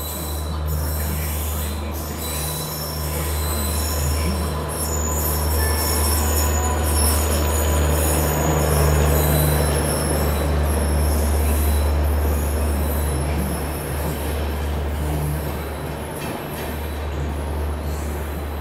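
An electric locomotive and its coaches rolling past along the platform line, with a steady low hum, the rumble of the wheels and a thin high squeal of wheels on the rails. The noise swells to its loudest about halfway through and then eases off.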